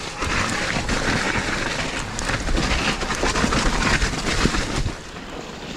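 Mountain bike descending a wet, muddy trail: wind rushing over the microphone, tyres churning through mud and water, and the bike rattling over bumps. It quietens about five seconds in.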